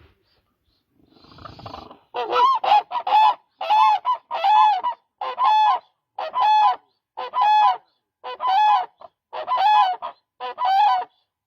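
Demoiselle crane (koonj) calling: about a dozen loud calls, roughly one a second, starting about two seconds in. Each call is a short note that rises and falls in pitch.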